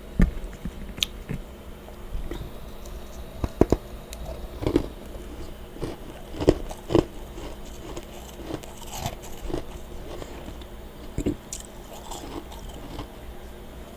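A person biting and chewing freezer frost in irregular crunches, a few of them sharp and loud, over a steady low background hum.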